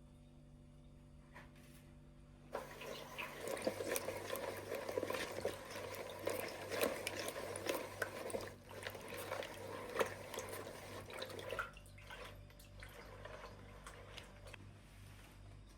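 Water running and splashing into a container for about nine seconds, starting about two and a half seconds in and stopping short, followed by a few light clicks.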